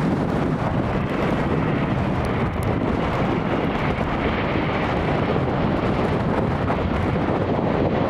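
Airbus A350 jet engines, a steady deep rumble that does not let up, mixed with wind buffeting the microphone.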